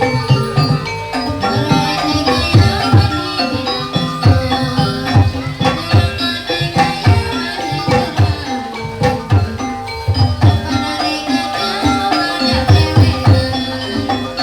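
Kuda lumping accompaniment music: a Javanese gamelan-style ensemble playing steadily, with deep hand-drum strokes under a busy melody of tuned metal percussion.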